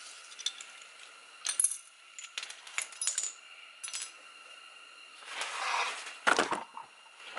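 Small metal parts and tools being handled, giving light metallic clinks and taps. A scraping rustle follows about five seconds in, then a louder metallic clatter about six seconds in, the loudest sound, which fits the bracket bolts being dropped.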